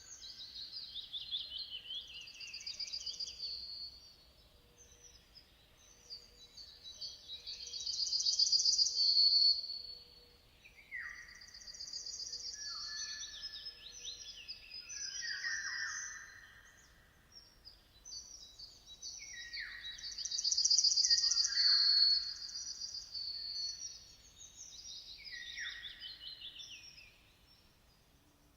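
Songbirds singing in turns: phrases of high, fast trills and quick falling notes, with short pauses between them. The loudest trilled phrases come about a third and about three quarters of the way through.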